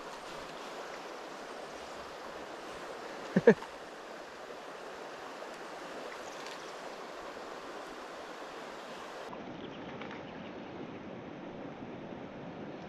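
Steady rush of flowing river water, with a brief loud double sound about three and a half seconds in.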